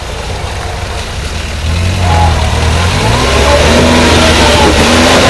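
UAZ off-road vehicle's engine running, then revving up under load about one and a half seconds in and held at high revs.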